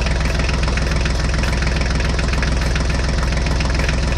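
Tractor engine running steadily with an even, regular chugging beat, the engine sound of a toy tractor being driven along.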